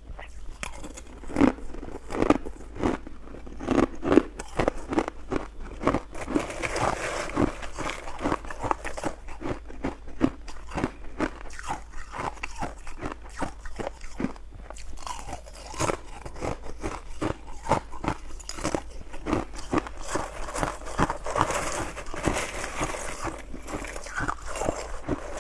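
Ice being bitten and chewed, close-miked: a dense, irregular run of sharp crunching cracks.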